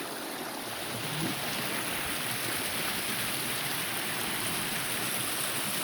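Flooded creek rushing steadily, running high and fast with storm runoff after torrential rain.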